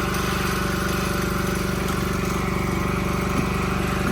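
Gas-engine Miller welder running at a steady idle, a constant even hum.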